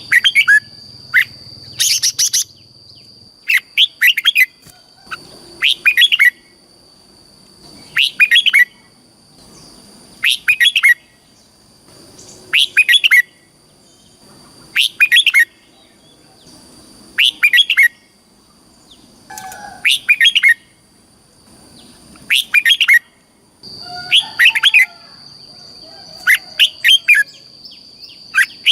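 Red-whiskered bulbul singing, repeating a short burst of quick, bright notes about every two seconds over a steady high-pitched whine.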